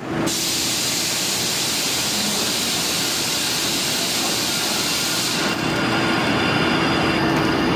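Loud, steady industrial machinery noise with a strong hiss. About five and a half seconds in the hiss drops away, leaving a deeper, rougher running noise with a faint steady hum.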